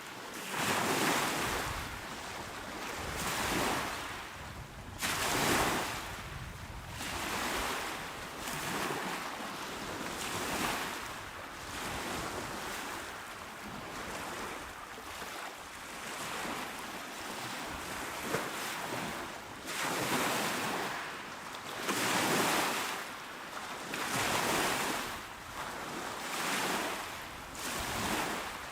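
Small waves washing onto a shore, each one swelling as it breaks and fading out, about one every two to three seconds.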